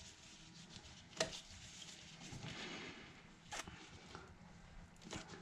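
Faint handling noises from gloved hands working at the tough tear-off seal of a bottle of 3D-printer resin: soft rustling with three light clicks spread through.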